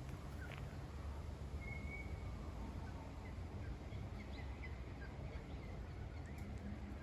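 Outdoor ambience of scattered short bird chirps and calls, with a brief whistled note about two seconds in, over a steady low rumble.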